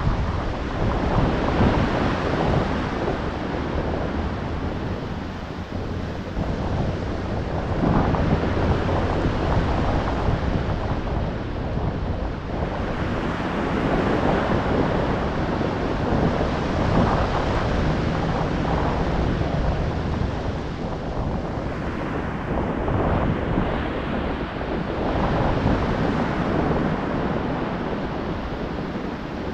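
Ocean waves breaking and washing on the shore, the surf swelling and easing every few seconds, with wind buffeting the microphone.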